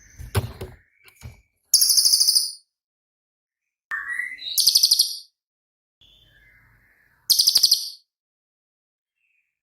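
Cililin songbird giving its 'tembakan' (shot) song: three loud, high, rapid trills of about three-quarters of a second each, roughly every two and a half seconds, with softer chirps and rising notes between them. A brief low thump sounds at the very start.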